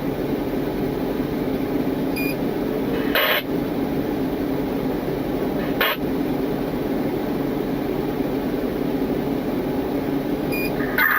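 A steady low mechanical hum, with two sharp clicks about three and six seconds in and short faint electronic beeps about two seconds in and near the end.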